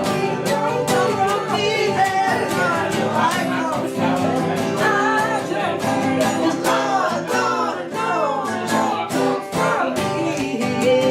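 Acoustic guitar strummed steadily in a country-folk tune, with a wavering melody line carried above it.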